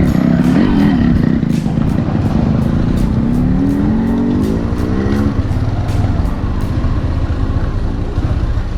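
Motorcycle engine running as it is ridden, a steady low rumble, its pitch climbing from about three to five seconds in as it speeds up.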